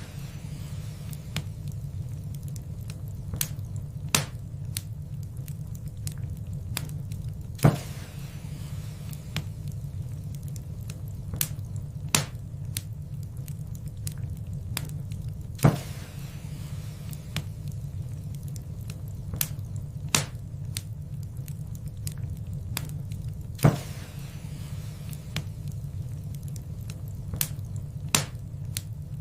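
Wood fire in a fireplace crackling: irregular sharp pops and snaps over a steady low roar, with a louder pop about every eight seconds.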